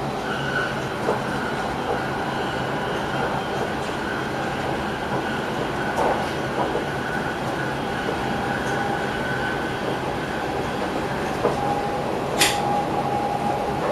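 Passenger train running along the track, heard from inside the driver's cab: a steady rumble with a faint steady whine, a few soft clicks of the wheels over the rails, and one sharp click about twelve seconds in.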